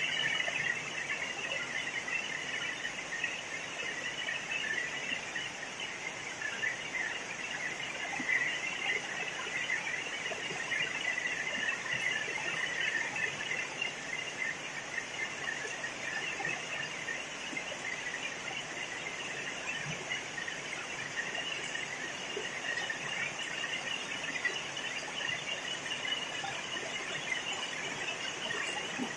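A steady, dense chorus of insects chirping, a continuous high shimmering drone without a break.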